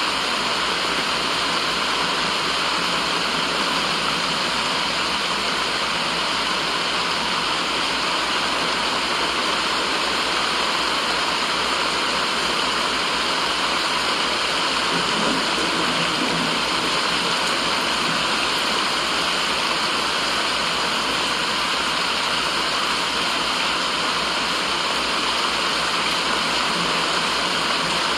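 Steady white noise: an even, unchanging hiss, strongest in the upper middle range, like rushing water.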